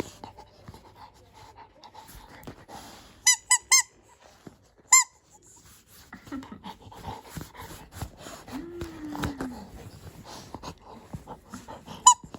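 A dog's squeaky toy squeaking as a Labrador retriever presses on it with its mouth: three quick squeaks about three seconds in, another about five seconds in, and two more near the end, with the dog giving a short low whine in between.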